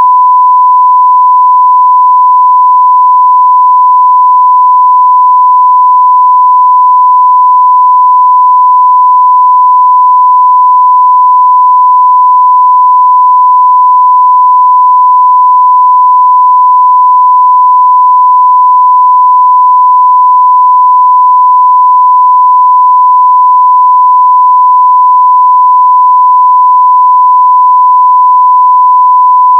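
A pure 1 kHz sine-wave test tone at full level (0 dB), held perfectly steady and unbroken.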